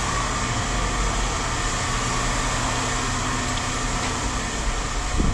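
Steady drone of running machinery or an idling engine, an even mechanical noise with a low hum, and a single knock near the end.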